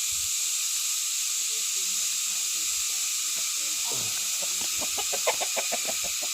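Steady high-pitched insect drone of the countryside. Near the end a chicken clucks in a quick run of calls.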